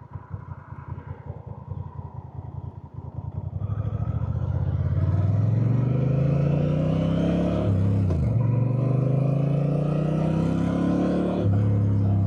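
Honda Rebel 1100's parallel-twin engine idling with a lumpy beat, then pulling away and revving up through the gears. There is an upshift about two-thirds of the way through, where the pitch drops and climbs again, and another shift near the end.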